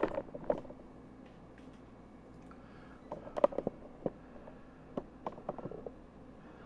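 A few light clicks and taps from handling corn dogs and kitchen items, the sharpest about three and a half seconds in, over a low steady hum.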